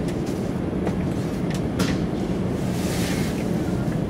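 800 series Shinkansen heard from inside the passenger cabin, rolling slowly out of a station: a steady low rumble from the running gear, a few sharp clicks in the first two seconds, and a brief hiss about three seconds in.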